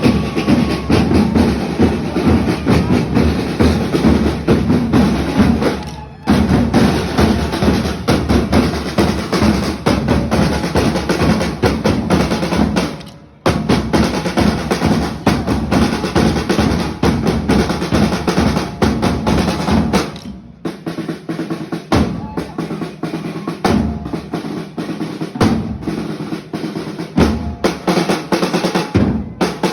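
Drum band playing snare and bass drums, with dense snare rolls. It breaks off briefly twice, then thins to sparser, separate strikes after about twenty seconds.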